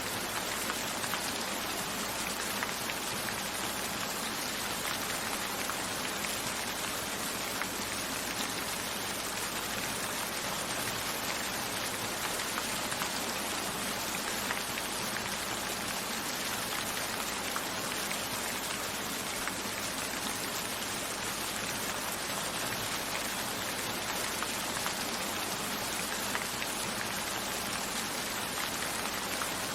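Steady rain falling, with scattered drops ticking on a window.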